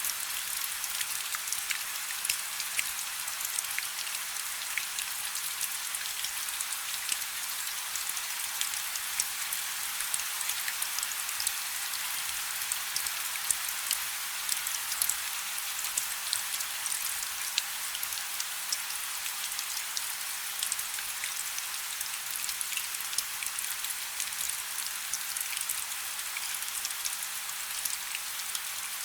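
Light rain falling steadily, a continuous high hiss peppered with many fine drop ticks.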